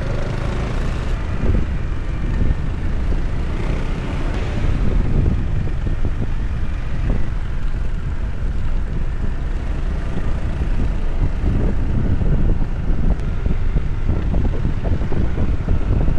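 Motorcycle riding along, with wind buffeting the microphone over the engine's steady running.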